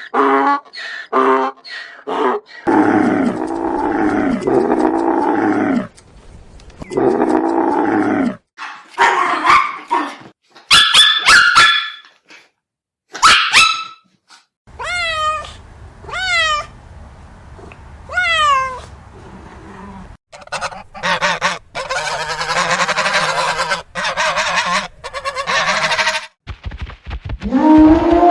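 A string of different animal calls edited one after another. It starts with a few short calls, then come long pitched calls, then higher calls, then a run of quick falling chirps, and a harsher, noisier stretch near the end.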